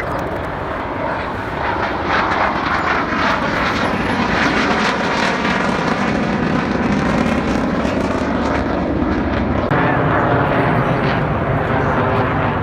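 Fixed-wing aircraft flying past overhead at an air show: a loud, steady engine roar that builds over the first couple of seconds, with a slowly sweeping, phasing quality as the plane passes.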